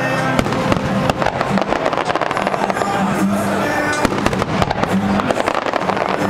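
Fireworks display: rapid, dense crackling and popping bursts, over loud music playing.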